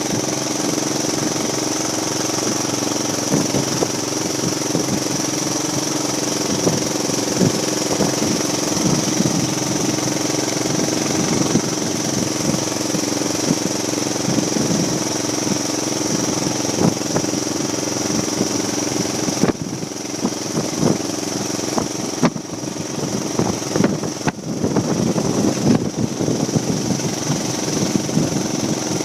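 Tractor engine running steadily, with a constant high-pitched whine over it and a few brief dips in level about two-thirds of the way through.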